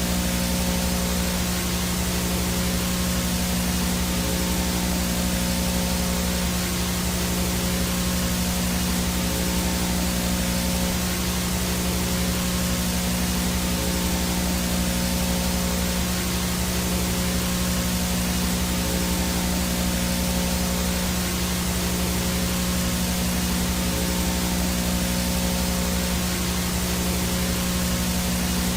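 VHS static noise: a steady, unchanging hiss with a low buzzing hum running beneath it.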